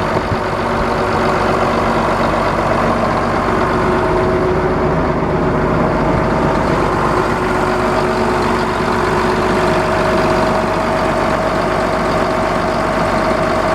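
Caterpillar 3306 inline-six diesel engine of a New Holland 1900 forage harvester running steadily, with a steady whine over the engine drone. The engine is strong and well serviced.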